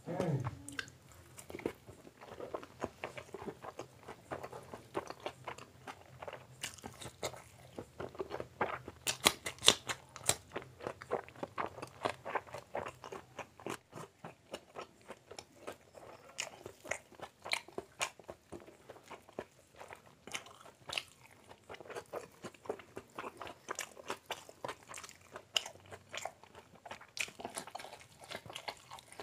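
Close-miked chewing of egg omelette dipped in spicy gravy: a dense, uneven run of wet mouth clicks and bites, busiest in the middle and again near the end.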